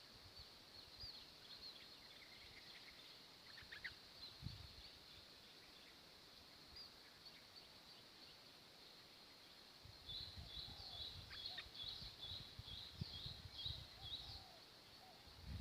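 Faint, high, short bird chirps repeated over and over, sparse at first and thickening into a quick run about two-thirds of the way in, over a low rumbling noise.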